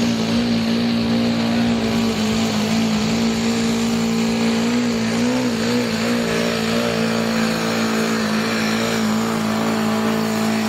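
Diesel engine of a pulling machine running at steady high revs under load during a pull, holding one pitch with a slight waver about halfway through.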